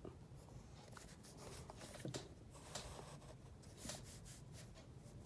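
Faint scratching of a black pen drawing on paper, in short strokes at irregular intervals.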